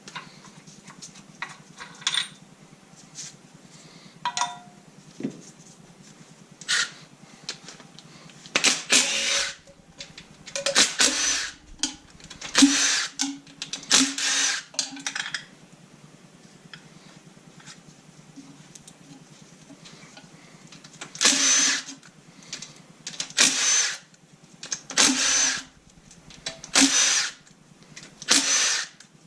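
A handheld power tool runs in nine short bursts of about a second each, in two groups. This fits bolts being run out one after another on an LS V8 engine being taken apart. Before the bursts there are a few light clicks and clinks of parts being handled.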